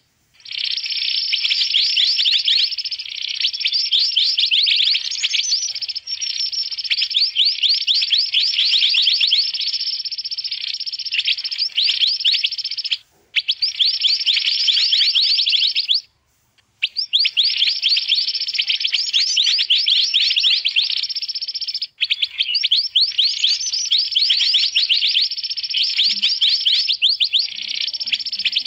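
Recorded mantenan bird calls played as a bird-trapping lure: loud, fast, dense chattering chirps with only two brief breaks, about halfway through.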